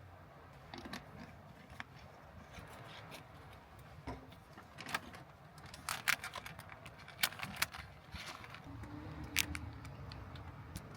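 Irregular sharp clicks and light clatter of small objects being handled, thickest in the middle, over a low steady background rumble.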